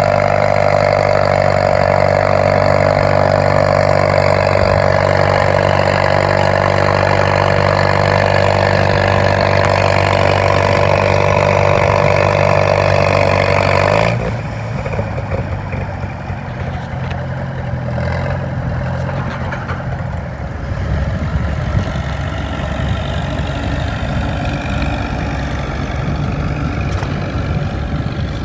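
Farmall M tractor's four-cylinder engine running hard at a steady pitch under pulling load. About halfway through it cuts abruptly to a lower, rougher running sound.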